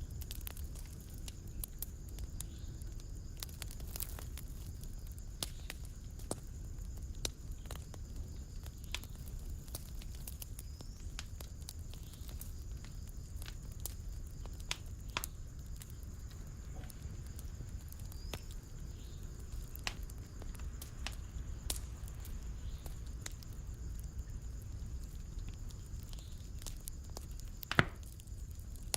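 Fireplace fire crackling: irregular sharp pops and snaps over a low steady rumble, with one louder pop near the end.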